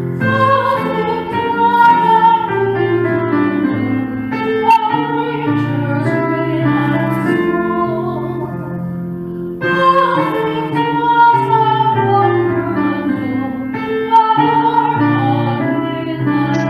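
Music: a woman singing with piano accompaniment, a new phrase starting about ten seconds in.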